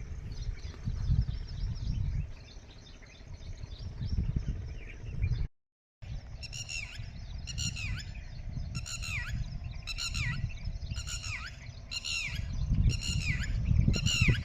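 A wild bird calling repeatedly outdoors, a run of about ten notes that each sweep downward in pitch, roughly one a second, starting about six seconds in after a brief cut to silence. A low rumble runs underneath.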